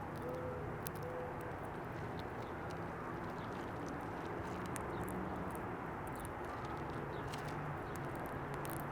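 Outdoor ambience at a backyard bird feeder: steady low background noise with a few short, low bird call notes in the first second and scattered faint clicks.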